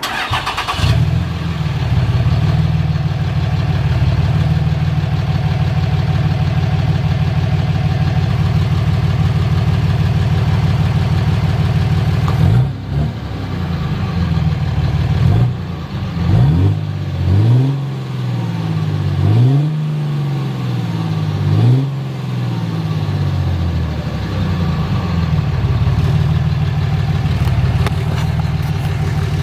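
Dodge Ram 2500's inline-six Cummins turbo diesel running at the exhaust, idling steadily at first. About halfway through it is revved in several quick throttle blips that rise and fall, then it settles back to idle.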